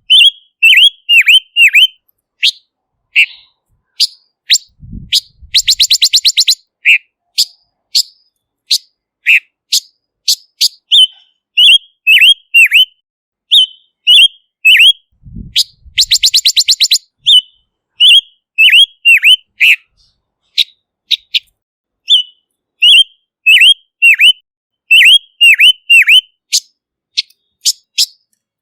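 Silver-eared mesia singing: a steady run of short, clear whistled notes, many of them dipping in pitch, broken twice by a fast rattling trill lasting about a second. A brief low thump comes just before each trill.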